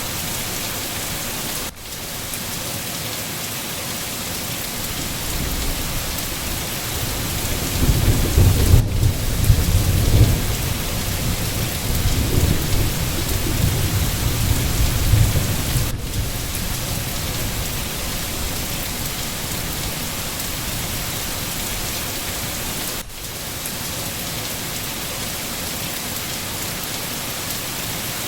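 Steady heavy rain pattering down, with a low roll of thunder rumbling from about eight seconds in until about sixteen seconds.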